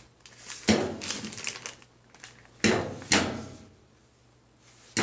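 Hands handling a packaged replacement knob: a few sharp knocks and rustles, one about a second in and two close together around three seconds, with quiet gaps between.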